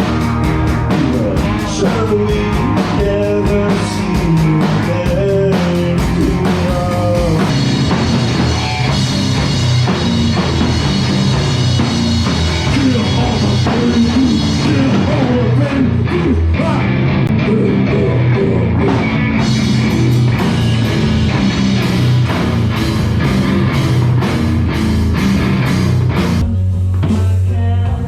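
Rock band playing: drum kit and guitar, with a singing voice over them.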